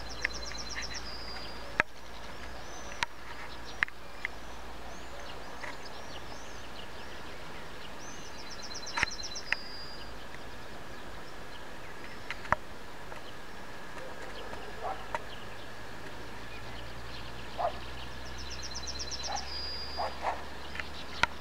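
Outdoor birdsong: a songbird repeats a short high, rapid trill that ends in a brief clear note, three times about nine seconds apart, with scattered smaller chirps between. A steady low rumble and a faint steady high tone run underneath, and sharp clicks sound here and there, the loudest things heard.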